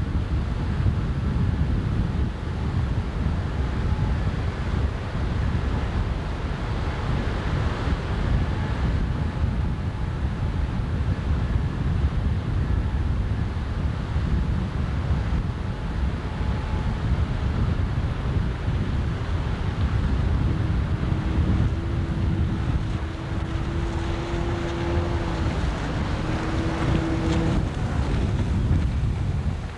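Wind buffeting the microphone with a low rumble over the water. About two-thirds through, an outboard motor's pitched drone comes in for several seconds, shifting slightly in pitch before it fades out.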